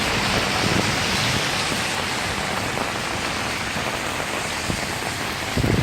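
Steady hiss of rain, with a brief low rumble near the end.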